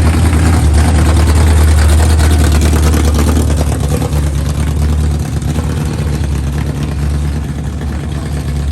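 A loud, modified car engine running with a deep, steady rumble, which the filmer calls nasty. It eases off a little about halfway through.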